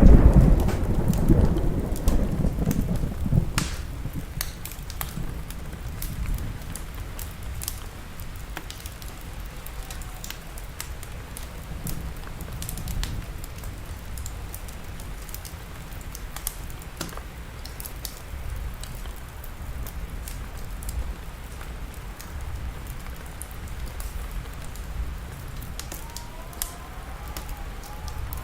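A roll of thunder rumbling and dying away over the first few seconds, then steady rain with the scattered snaps and crackles of a wood fire.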